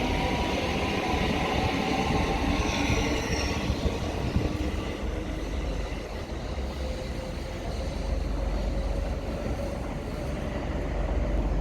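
Class 378 Electrostar electric train running on the line: a steady rumble of wheels on rail with a motor whine that falls slightly in pitch early on.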